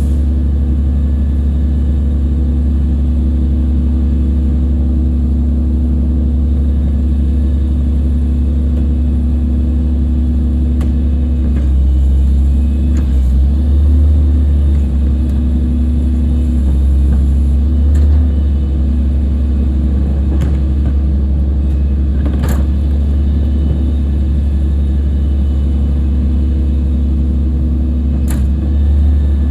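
Garbage truck's diesel engine running steadily up close, its pitch dipping and recovering briefly about halfway through, with a few sharp knocks.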